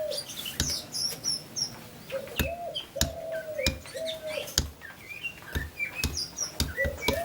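Sharp knocks of a mallet driving a small carving chisel through buffalo-hide leather, irregular, about one or two a second, as the puppet's pattern is punched out stroke by stroke. Birds chirp throughout, and one bird repeats a low call of short held notes.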